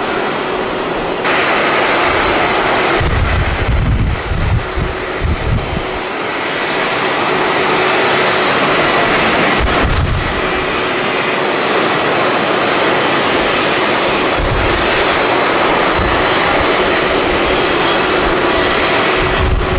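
Jet airliner engines running loud: a broad rush with a faint steady whine through it. Gusts of wind buffet the microphone with low rumbles a few seconds in and again later.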